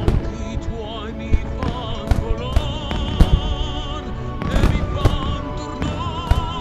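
Star mine fireworks: a string of sharp aerial shell bursts at irregular intervals, several a second at times, over loud music with a singer's wavering vibrato voice playing on the show's sound system.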